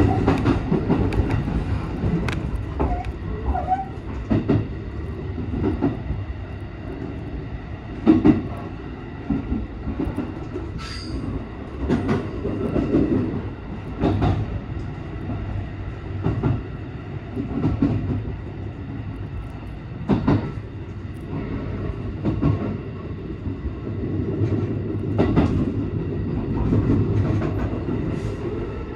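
JR West 223 series 2000-subseries electric train running along the track, heard from the driving cab: a steady low rumble and hum with irregular sharp clacks as the wheels strike rail joints and pointwork. A brief high-pitched squeal comes about eleven seconds in.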